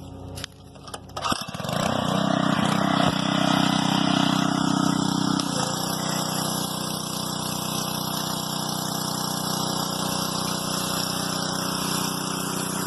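Small petrol-engine Lifan pressure washer started: a few clicks, then the engine catches about a second and a half in and runs fast. Just over halfway it settles into steady, slightly lower running.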